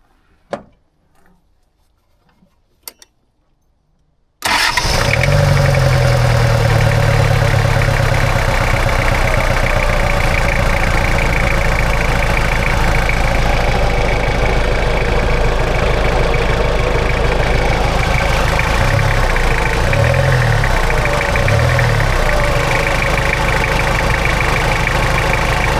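An off-road 4x4's engine catches abruptly about four seconds in and keeps running loudly and steadily, with a few quick revs near the end. Before it catches there are only a few faint clicks.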